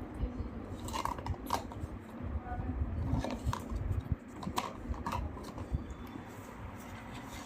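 Handling noise: scattered light clicks and taps of small hard objects, over a low rumble.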